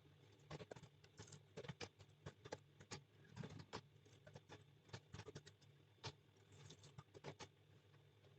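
Faint, irregular clicking of computer keyboard keys being typed, in quick clusters with short pauses, over a low steady hum.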